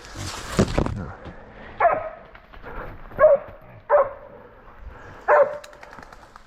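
Pig-hunting bailing dog barking at a bailed wild pig: four sharp barks spaced roughly a second apart, with a short noisy burst just before them.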